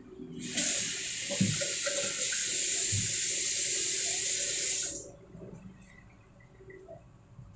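Kitchen tap running into a sink for about four and a half seconds, starting and stopping abruptly, with a couple of low knocks while it runs.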